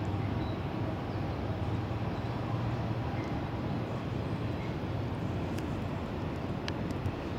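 Colas Rail Class 70 diesel locomotive hauling a train of empty cement wagons, heard from a distance as a steady low rumble with a low hum.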